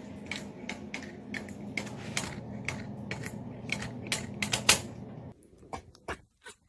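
A quick, irregular run of clicks and taps, several a second, over a low steady hum that cuts off about five seconds in, leaving a few scattered clicks.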